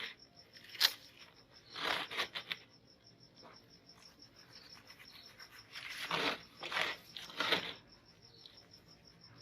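Meat grinder crunching and crushing something fed into it, in irregular bursts: a sharp crack about a second in, a cluster of crunches around two seconds, and another run of crunching near the end.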